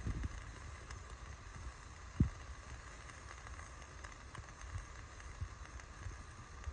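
Wood campfire crackling with scattered small ticks, over a steady low rumble, with one dull thump about two seconds in.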